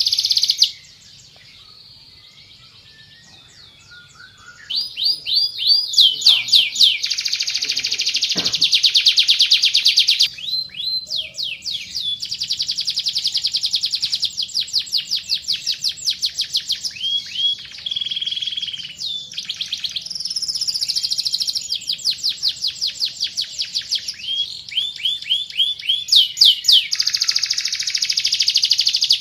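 Canary singing fast, rolling trills of repeated high notes, broken by a pause of about four seconds near the start before the song picks up again and runs on in long phrases.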